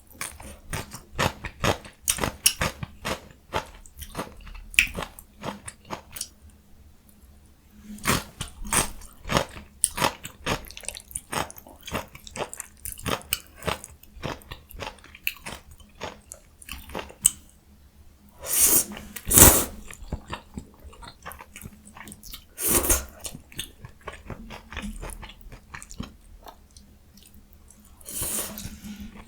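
Close-miked eating of jjajang ramyun noodles with young summer radish kimchi: rapid chewing and biting in many short wet clicks, pausing briefly about a quarter of the way in. A few longer, louder mouth sounds break in, the loudest a little past halfway.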